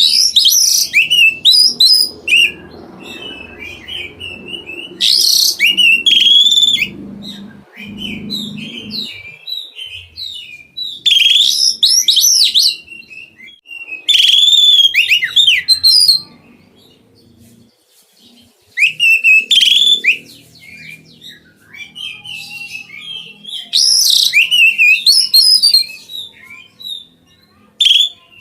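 Oriental magpie-robin (kacer) singing loudly in full song. Its rich, rapid whistled phrases come in bursts of a second or two, every few seconds.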